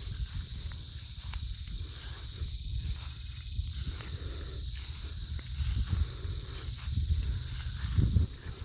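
Steady high-pitched insect chorus, crickets droning without pause, over a low rumble of wind and handling on the microphone, with footsteps on grass; the rumble swells briefly near the end.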